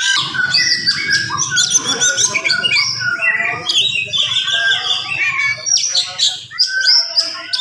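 Oriental magpie-robin (kacer) singing a fast, dense stream of chirps, trills and whistled glides, with hardly a break; this tight, rapid delivery is what breeders call a gacor bird in full song.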